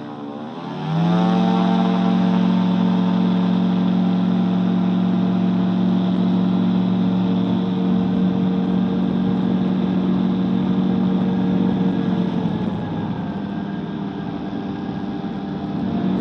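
Microlight trike engine opened up to full power for the takeoff roll: its pitch rises sharply about a second in and holds steady and loud. Around three-quarters of the way through it eases back to a lower, quieter note, then picks up again near the end.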